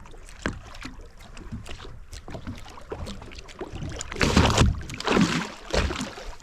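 Water slapping and knocking against the hull of a drifting boat, a scatter of small clicks and knocks, with a few louder rushes of noise between about four and six seconds in.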